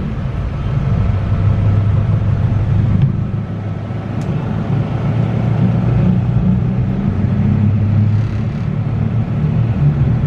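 Car running along the road: a steady low engine and road rumble, easing off slightly about three seconds in.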